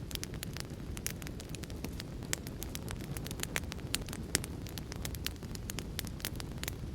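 Wood fire in a fireplace crackling, with many irregular sharp pops, over a steady low rushing noise.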